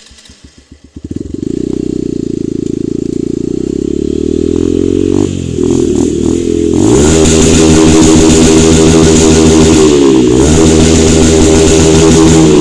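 Hero Xtreme 160R motorcycle's single-cylinder engine catching about a second in and idling through its exhaust. A few blips follow, then it is revved up at about seven seconds and held at higher revs, with a brief dip shortly before the end.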